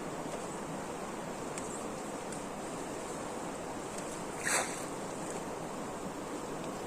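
Steady rush of flowing stream water, with one brief sharp noise about halfway through.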